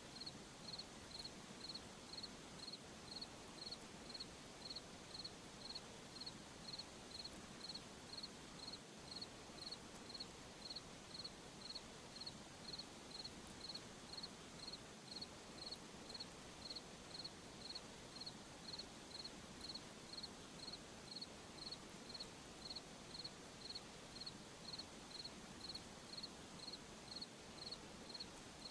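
A cricket chirping in a steady, even rhythm, about three high-pitched chirps every two seconds, over a faint steady hiss of night ambience.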